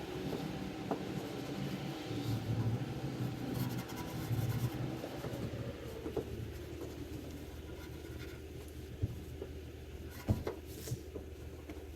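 A cloth rubbing metal polish onto a chrome exhaust tip by hand: uneven, scratchy rubbing over a steady low hum, with a sharp knock about ten seconds in.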